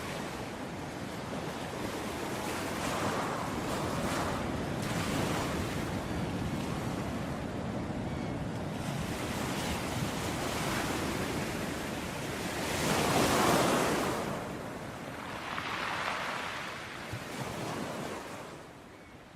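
Ocean surf, waves breaking and washing in slow swells, the loudest one about two-thirds of the way through. The sound fades down near the end.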